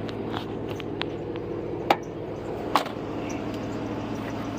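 A truck engine idling steadily, with two sharp knocks a little under a second apart near the middle.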